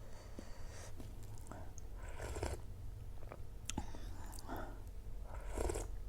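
A person chewing food close to the microphone, in several separate bouts with a few small sharp clicks between them.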